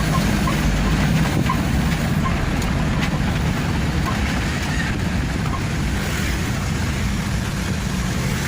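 Truck engine and road noise while driving: a steady low rumble with no sudden changes.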